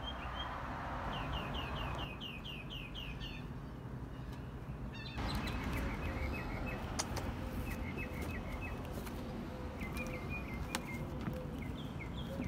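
Songbirds singing outdoors: a run of about eight quick repeated chirps early on, then short chirping phrases every second or two. A few light clicks fall in the second half.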